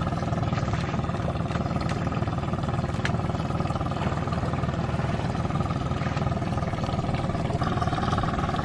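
Small motorboat's engine running steadily, with a slight change in its tone about seven and a half seconds in.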